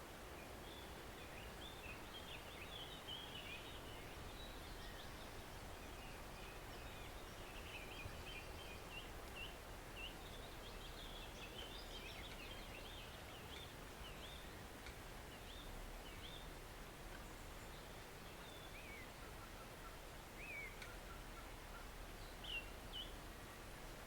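Small woodland stream flowing steadily, with birds chirping and singing throughout.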